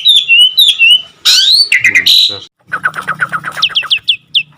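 Myna birds calling. There are slurred whistles, then a loud harsh call about a second in, then a fast chattering run of repeated notes and a few short falling whistles.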